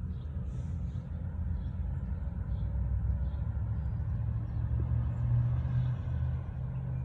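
A steady low rumble, with a few faint, short bird chirps above it.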